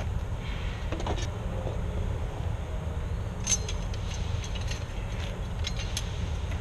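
A steady low rumble with a few light clicks and taps: one about a second in, a sharper one in the middle, and another near the end.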